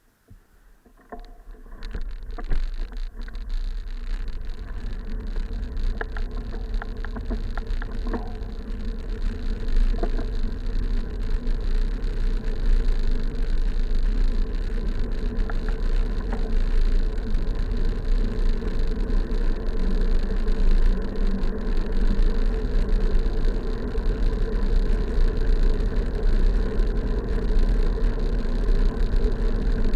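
Wind rushing over a bike-mounted camera's microphone and road rumble from a moving bicycle, building over the first two seconds as the ride gets under way and then running steadily. A few clicks and knocks sound in the first ten seconds.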